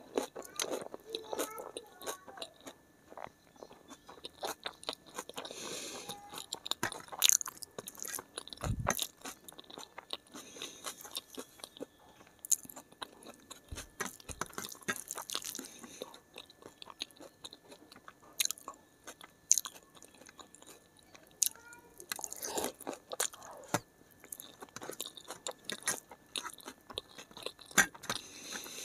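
Close-up eating sounds of a person eating rice and curry by hand: wet chewing and crunching with many short sharp clicks, and fingers mixing rice on a steel plate.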